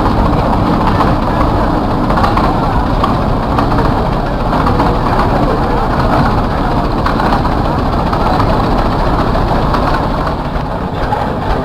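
Large antique gas tractor engine running steadily.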